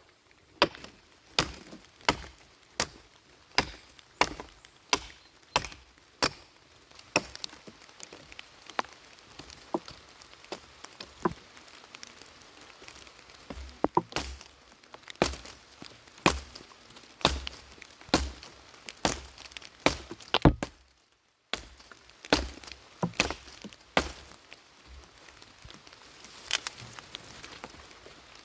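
Axe chopping wood: a long run of sharp wooden strikes, more than one a second and evenly paced at first, then less regular. A brief break comes about three-quarters through, and the strikes thin out near the end.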